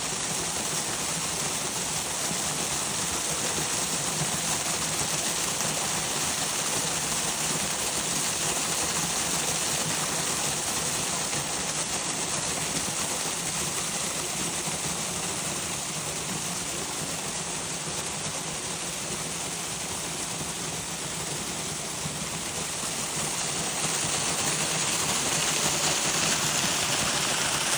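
Steady rushing of flowing water, a continuous hiss-like noise that grows a little louder near the end.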